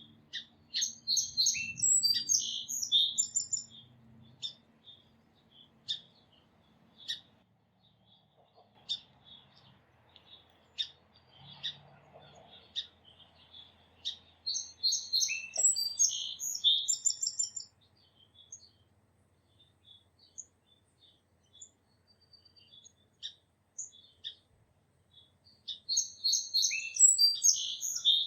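A songbird singing the same short, busy song phrase three times, about twelve seconds apart, with scattered single chirps between the songs.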